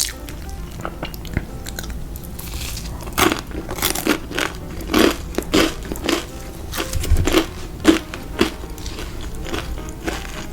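Close-miked crunching bites and chewing of crispy fried food, a run of sharp crunches coming thick and fast from about a third of the way in until near the end.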